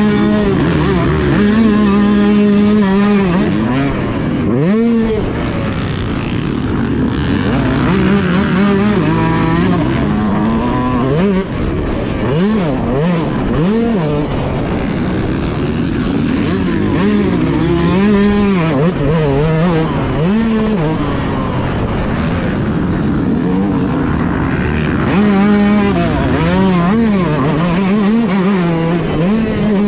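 Motocross bike engine running hard in a race, its revs climbing and dropping every second or two as the rider accelerates, shifts and brakes around the track.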